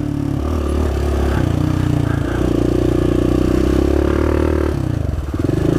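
Suzuki 400 single-cylinder four-stroke engine running steadily while riding; its note steps up about two seconds in, holds, then drops away near the end.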